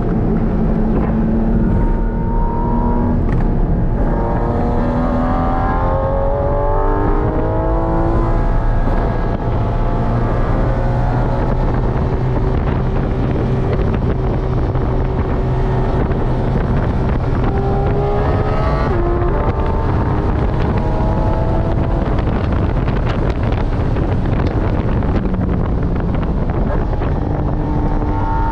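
Porsche 718 Cayman GT4 RS's naturally aspirated 4.0-litre flat-six at speed, heard from inside the cabin. The pitch climbs with the revs and drops back at each upshift, with a steadier stretch in the middle, over wind and tyre noise.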